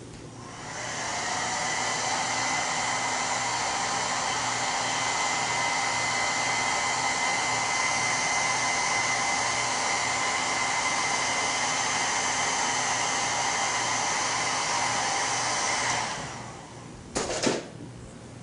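Hand-held hair dryer blowing steadily, switched on about a second in and off near the end, then a short knock.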